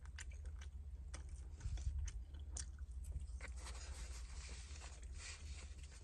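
A person chewing food close to the microphone, with small clicks and scrapes from a plastic fork and a foam takeout container being handled.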